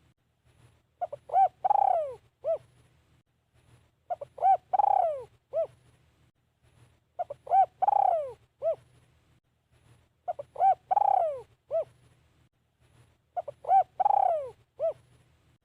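Spotted dove cooing its song phrase: two short coos, a long falling coo and a short final coo. The phrase repeats five times, about every three seconds, over a faint low hum.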